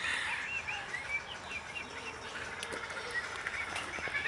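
A chorus of small birds chirping, many short rising-and-falling calls overlapping.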